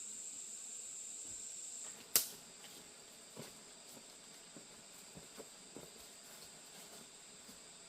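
Steady high-pitched insect drone of the kind crickets or cicadas make, which drops sharply in level about two seconds in at a single sharp knock. Scattered lighter clicks and taps follow.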